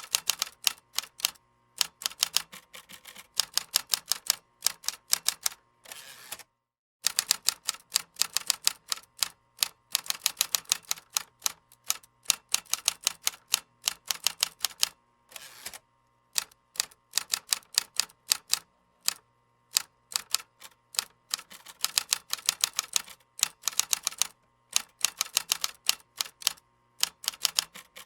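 Typing on a computer keyboard: quick runs of key clicks in bursts of a second or two, separated by short pauses, with one brief full stop about six and a half seconds in.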